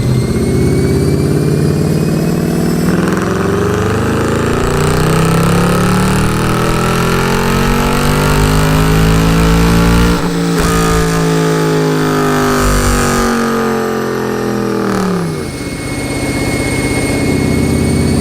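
Mercedes-AMG M156 6.2-litre V8 running steadily, then its revs climb slowly for about seven seconds, dip briefly near the peak, and fall away over the next five seconds before settling back to an even run.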